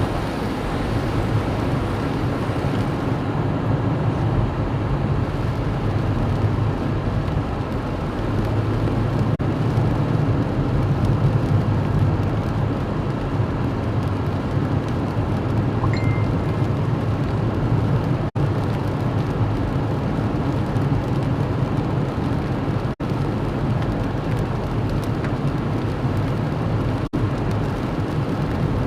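Steady low rumble and hiss of a vehicle on the move in heavy rain. The sound cuts out very briefly three times in the second half.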